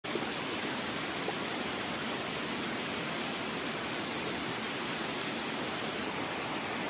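Mountain river water rushing steadily, an even hiss with no break. Near the end a run of short, high chirps starts over it.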